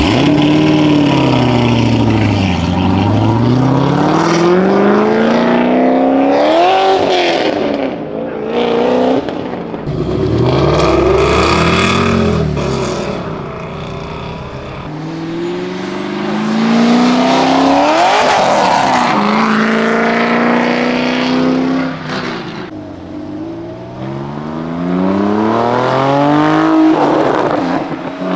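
Several high-performance car engines revving and accelerating past one after another, each rising and falling in pitch as it goes by.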